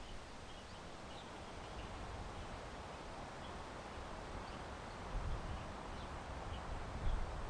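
Outdoor ambience: wind rumbling on the microphone, stronger in gusts about five seconds in and near the end, with faint, scattered chirps of small birds.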